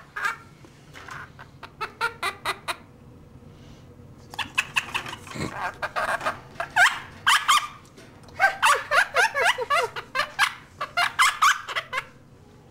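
A pet bird giving several quick runs of sharp repeated calls, about six notes a second, some notes dropping in pitch, with short pauses between the runs.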